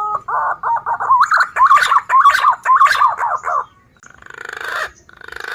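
Green pigeon (punai) song used as a bird-trapping lure call. It opens with a quick run of warbling whistled notes around one pitch lasting about three and a half seconds, then two short, rougher buzzy phrases.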